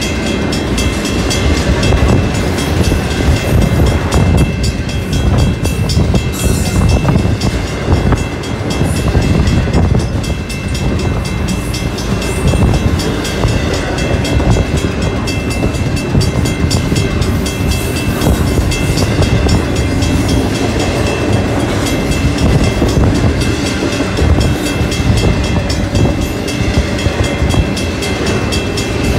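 Double-stack container cars of a Union Pacific intermodal freight train passing close by at speed: a steady loud rumble with the rattle and clatter of the wheels on the rails.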